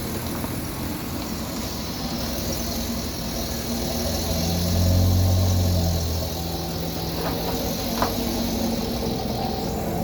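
An engine or motor running steadily with a low hum that swells louder for a couple of seconds midway, and a sharp click about eight seconds in.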